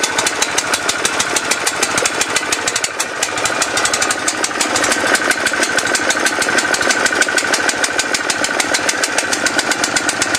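Petrol pressure washer's small single-cylinder engine running steadily on full choke just after a cold start, with a rapid even pulsing beat.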